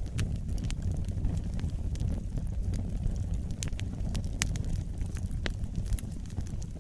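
Wood fire burning: a steady low rumble from the flames with frequent, irregular sharp crackles and pops from the burning wood.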